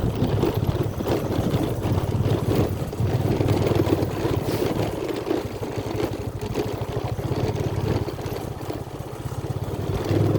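A vehicle engine running steadily: a continuous low hum with a fast, even pulse.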